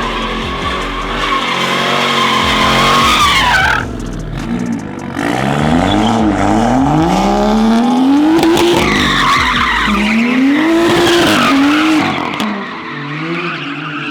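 A car doing donuts: its engine revs up and down again and again while the tyres squeal, and the revs fall away near the end.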